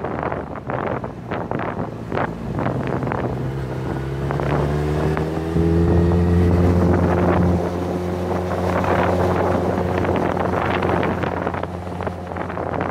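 Sport motorcycle engine running, its pitch climbing slowly a few seconds in and holding, loudest for a couple of seconds in the middle. Wind noise on the microphone.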